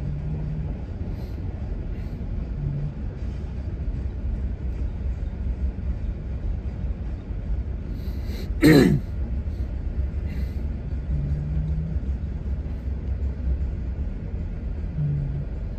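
Freight train of autorack cars rolling past, a steady low rumble heard from inside a car. About halfway through comes one short, sharp sound that falls quickly in pitch.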